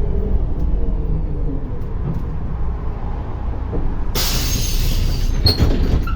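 Inside a MAZ-105 city bus: the bus runs low and steady, then about four seconds in a loud hiss of released compressed air from its pneumatic system lasts about a second.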